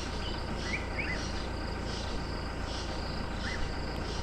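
Insects chirping in an even rhythm, about three high chirps every two seconds, with a few short rising bird notes and a steady low rumble underneath.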